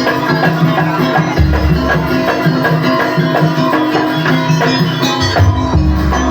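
Jaranan gamelan music: drums and tuned metal percussion playing a steady, busy rhythm. Deep low notes swell in about a second and a half in and again near the end.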